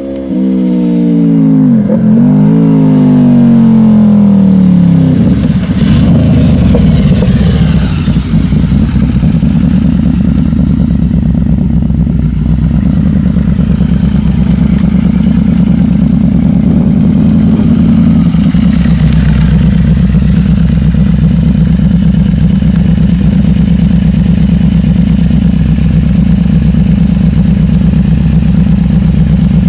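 Yamaha V-Max motorcycle's V4 engine revving. Its pitch sweeps down and back up a couple of times in the first few seconds, then it runs steadily and loud for the rest.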